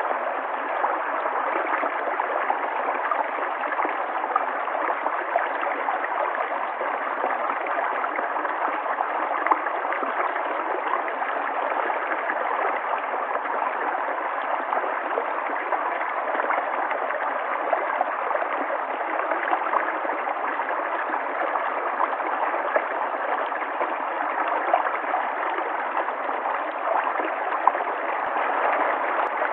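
River water flowing and gurgling steadily, a constant rush with small splashes and bubbling flecks.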